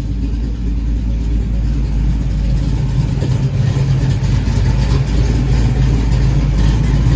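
Car engine idling steadily through a freshly welded-in exhaust of stainless Flowmaster mufflers and an H pipe, a deep, even exhaust rumble.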